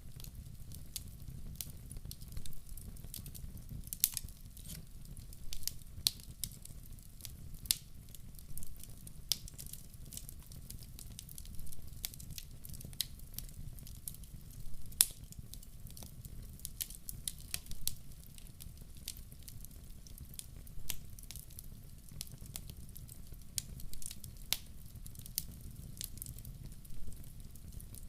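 Log fire burning in a wood-burning stove: irregular crackles and sharp pops over a low steady rumble.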